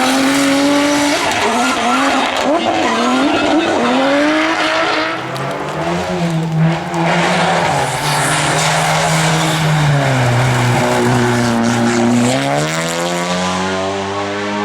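Race car engine under hard acceleration, its pitch climbing and dropping quickly through gear changes for the first few seconds. It then holds a long lower note that sags slightly and rises steeply again near the end.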